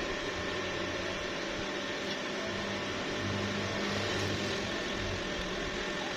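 Stick welding arc on steel plate, crackling steadily, with a faint low hum underneath.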